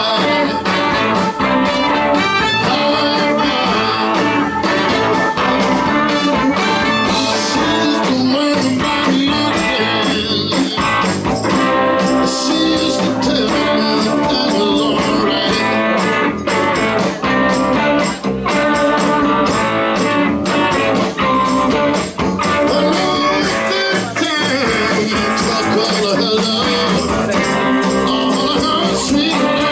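Blues band playing live, with guitar to the fore in a full band sound.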